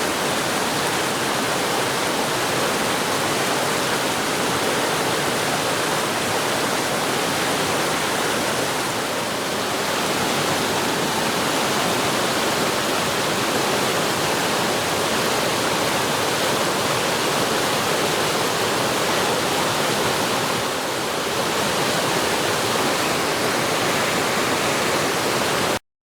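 Waterfall rushing steadily, a dense, even sound of falling water that cuts off suddenly near the end.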